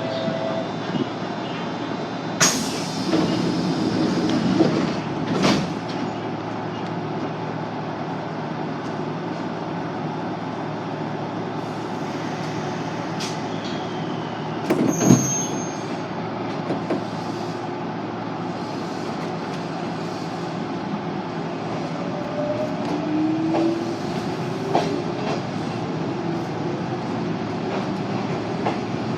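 Yoro Railway train running, heard from inside the carriage: a steady rumble of wheels on the track, broken by a few sharp knocks and clicks, the loudest about halfway through. A faint rising whine comes in a little after the middle.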